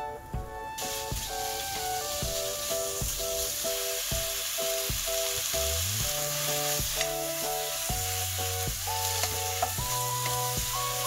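Food sizzling as it fries in a hot pan, a steady hiss that starts about a second in.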